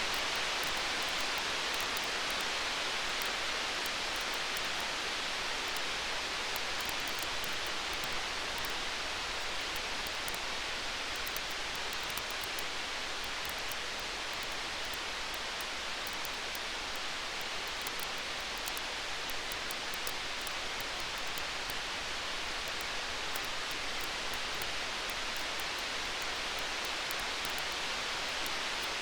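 Campfire crackling: many small sharp pops scattered over a steady hiss.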